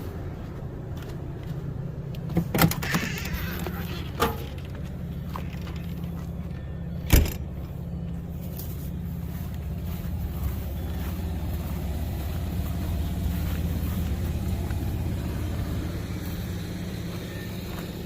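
A steady low mechanical hum, like a motor or engine running, with a few sharp knocks; the loudest knock comes about seven seconds in.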